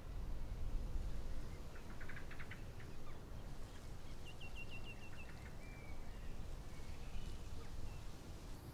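Outdoor garden ambience: small birds chirping over a steady low rumble, with a quick run of short repeated chirps around the middle.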